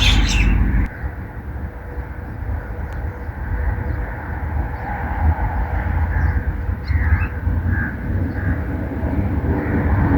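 Outdoor ambience: a steady low rumble with a few faint bird chirps about seven seconds in.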